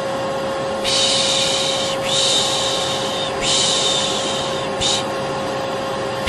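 Vacuum cleaner running steadily with a constant hum, overlaid with repeated 'shh' shushing sounds for soothing a baby: three long shushes of about a second each in quick succession, then a short one.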